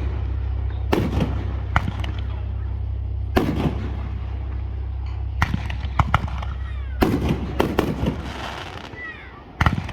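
Aerial fireworks going off in a string of sharp bangs, some in quick pairs, with crackling between them over a steady low rumble.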